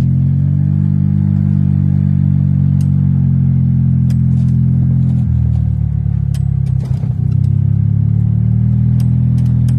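Golf cart running steadily along a trail, with light rattling clicks. About five seconds in its pitch drops as it slows, then it picks back up about two seconds later.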